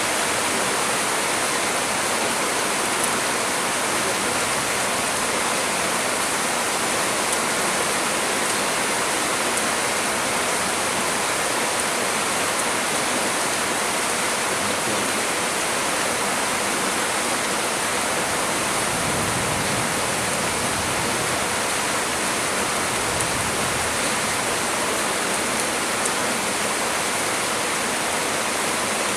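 Heavy storm rain pouring steadily on trees, a dense even hiss. Deeper swells of gusting wind come twice about two-thirds of the way through.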